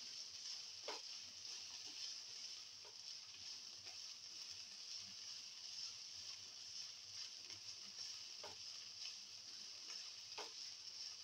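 Bitter gourd slices frying in oil in a pan, with a steady quiet sizzle. A spatula stirring them gives a few short scrapes and taps, about four in all.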